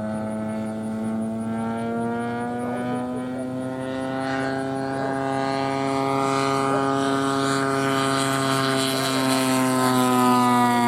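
GP123 gas engine of a 140-inch Legacy Aviation Bushmaster model airplane running steadily with its propeller, the pitch rising slightly and the sound growing steadily louder.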